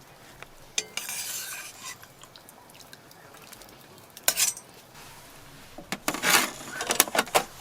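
Utensils scraping and clinking against a stainless steel Dutch oven and dishes as braised pork belly is dished out, in short bursts about a second in, around four seconds in, and a run of clinks and scrapes near the end.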